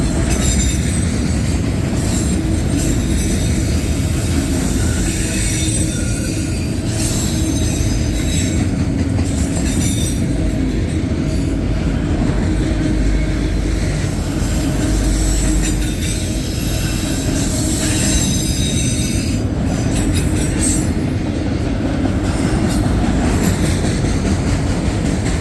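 Loaded autorack freight cars rolling past close by: a steady heavy rumble of steel wheels on rail, with high wheel squeal coming and going a few times.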